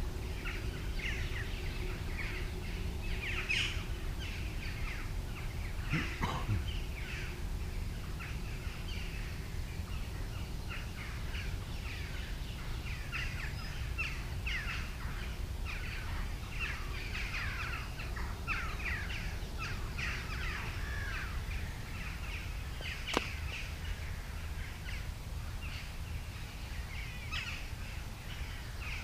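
Wild birds singing and calling in a dense run of short chirps and whistles, over a steady low background rumble. A single sharp click about 23 seconds in.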